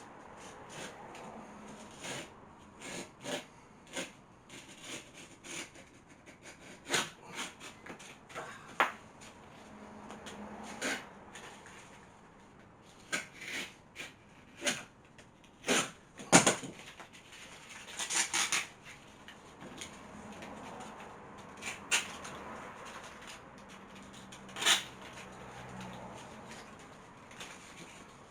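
Scattered clicks, taps and short scratchy scrapes from old abrasive sanding belts being cut into thinner strips and handled, with no power tool running.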